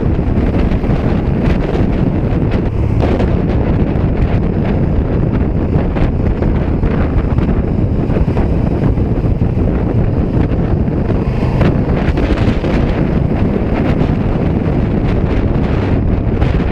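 Heavy wind rushing over the microphone while riding, with the KTM 1290 Super Duke R EVO's V-twin engine running underneath at a steady level.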